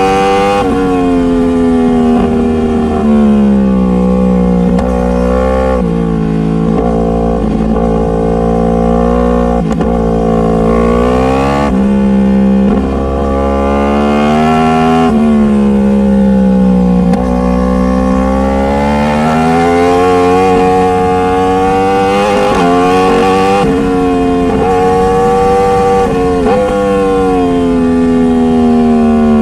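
Motorcycle engine running hard under way. Its pitch climbs and then drops sharply again and again, as the rider accelerates, shifts gear and rolls the throttle on and off.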